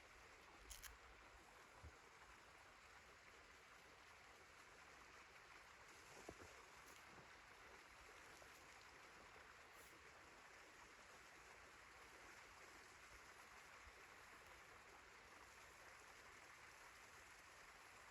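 Near silence: a faint steady hiss, with a soft tick about a second in and another around six seconds.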